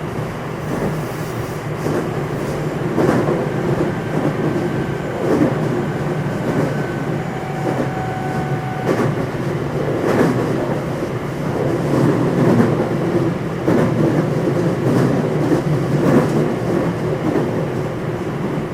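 Running noise inside the motor car of a JR West 227 series electric multiple unit (Hitachi IGBT VVVF inverter) travelling at speed: a steady low rumble of wheels on rail with scattered rail-joint clicks. Faint high tones from the traction equipment come and go in the middle.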